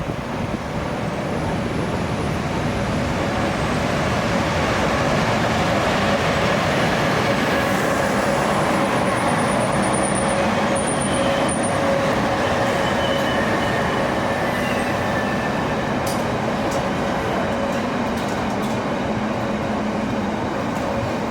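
Swedish Rc6 electric locomotive and its train rolling past on the rails, a steady, loud running noise that builds over the first few seconds. There is a faint high wheel squeal about halfway through.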